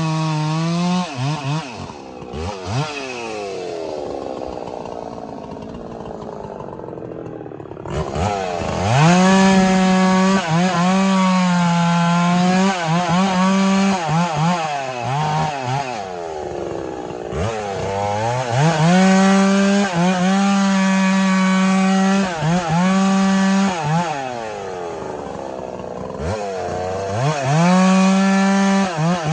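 Chainsaw bucking firewood: the engine runs at full throttle, drops to idle a couple of seconds in, revs back up about eight seconds in and dips in pitch repeatedly as it bogs under load in the wood, eases off again briefly near the end and then revs up once more.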